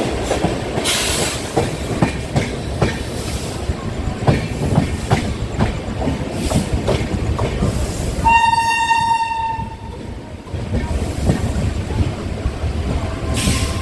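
Express train running at speed, heard from inside a coach: a steady rumble with repeated sharp clatter of the wheels over rail joints and points. A train horn sounds once for about a second and a half, a little past halfway.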